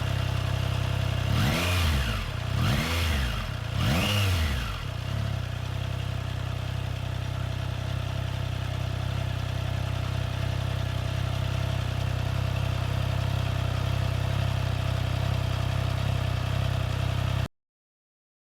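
Suzuki 800 cc-platform parallel-twin motorcycle engine idling, blipped three times in quick succession about a second apart, each rev rising and falling. It then settles back to a steady idle until the sound cuts off suddenly near the end.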